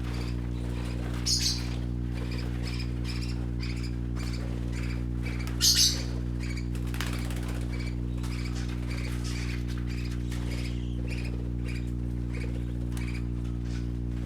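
Young parakeets chirping in quick short notes, with two louder sharp calls, one about a second in and one near the middle, over a steady low hum.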